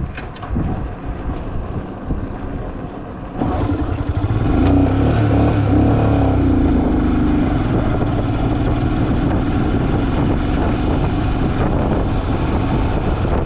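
Motorcycle engine running on the move, with choppy rumble at first; about three and a half seconds in it jumps louder into a steady engine note.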